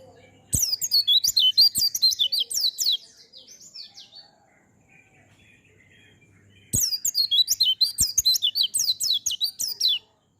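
White-eye (pleci) singing its fast 'kongslet' song: two bursts of rapid, high, downward-slurred notes, each about two and a half to three seconds long, with a pause of a few seconds between them.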